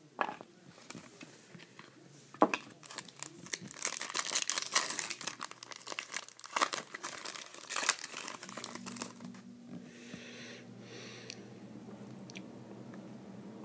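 Crinkling and tearing of a trading-card pack's foil wrapper as it is handled and opened, with a few sharp crackles, most of it in the middle of the stretch. A faint steady hum follows in the last few seconds.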